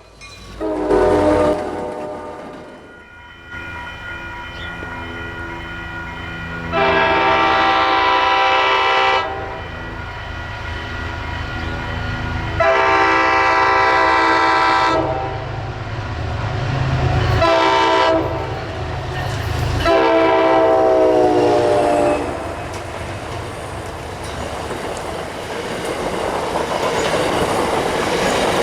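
A diesel commuter train's multi-note horn sounds a short blast, then the long, long, short, long crossing signal as the train approaches. The locomotive's rumble builds under the horn, and the clatter of the passing coaches rises near the end.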